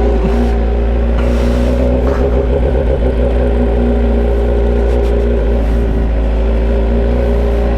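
Motorcycle engine with its muffler removed, running on a bare open pipe, idling loudly at a steady pitch.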